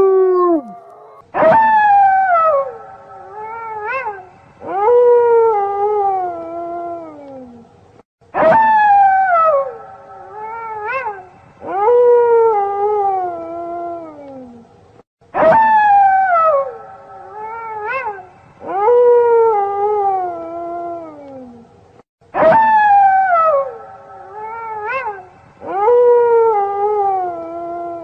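Wolf howls: long calls that start high and slide down in pitch, with short yips between them. The same sequence repeats four times, about every seven seconds, as a loop.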